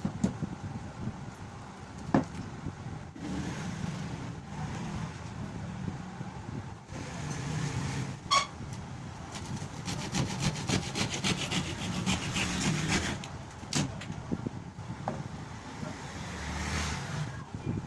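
Hand tool scraping and rubbing against a wooden cricket bat in rapid back-and-forth strokes, with a few sharp knocks.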